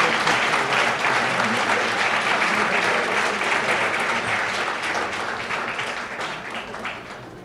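Large audience applauding, the clapping tapering off over the last couple of seconds.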